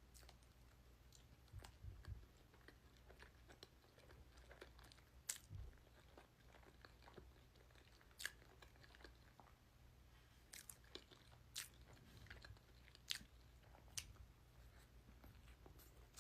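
Quiet close-miked chewing of chili cheese dogs and chili cheese fries, with scattered sharp wet mouth clicks and a few soft low thumps.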